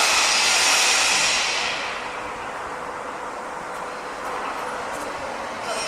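Construction-site din: a loud, steady hiss that eases off about two seconds in to duller, quieter machinery noise, then swells again at the very end.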